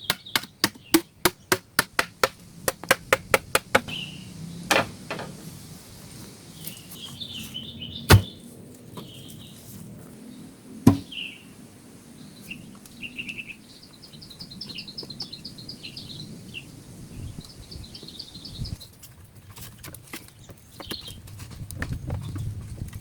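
A fast run of chopping strokes on wood, about four a second for the first four seconds, then three single heavy strikes a few seconds apart. In the second half a bird chirps in quick high trills.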